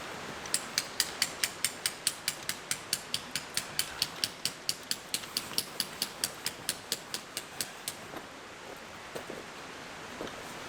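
A small mechanism clicking rapidly and evenly, like a ratchet, about five clicks a second, stopping about eight seconds in; a few faint knocks follow near the end.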